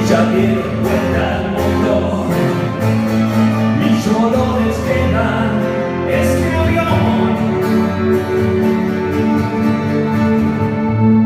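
Rock band playing an instrumental passage between sung lines, with guitar over bass. Sharp percussive hits keep a beat for about the first seven seconds, then give way to held, ringing notes.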